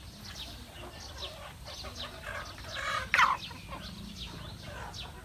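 A flock of chickens calling, with many short, high-pitched chirps sliding downward in pitch and one louder squawk about three seconds in.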